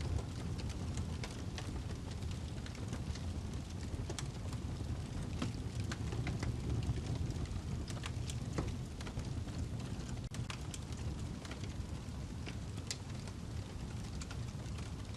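Wood log burning in a fireplace: a steady low rumble of flames with frequent, irregular sharp crackles and pops.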